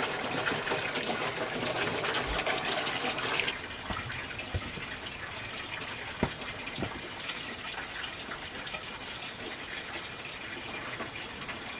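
Running water, heavy for the first three and a half seconds, then dropping to a softer, steady flow with a few light knocks.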